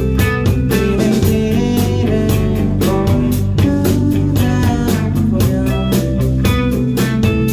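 Live rock band playing an instrumental passage: strummed guitar chords over a steady drum beat with bass, no vocals.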